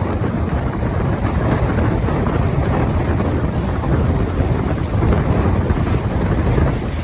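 Strong blizzard wind gusting against the microphone: a steady, loud low rumble of wind noise.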